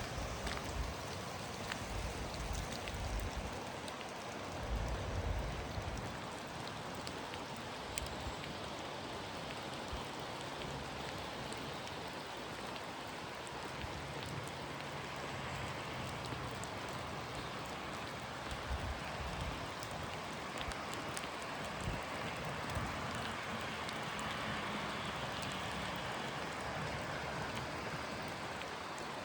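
Steady rain falling, with many scattered sharp ticks of single drops and a few low bumps early on. A broader hiss swells over the last several seconds.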